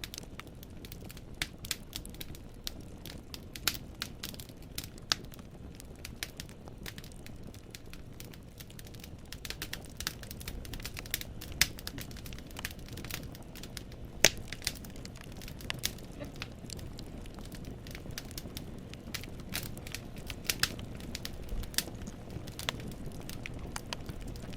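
Wood fire burning in a fireplace: the logs crackle and pop in quick, irregular snaps over the low, steady rumble of the flames, with a few sharper, louder pops.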